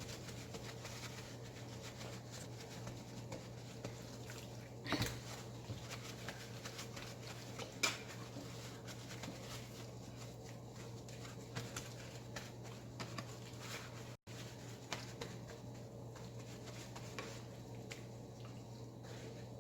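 Paper towels patting and rubbing a raw whole chicken dry: soft, faint rustling and light pats. A couple of sharper knocks come about five and eight seconds in, over a steady low hum.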